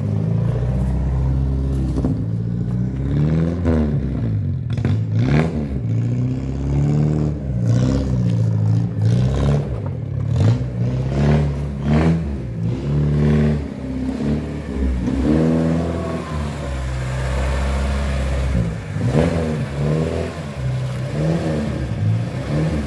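Ford Corcel's four-cylinder engine running as the car is manoeuvred, its speed rising and falling again and again.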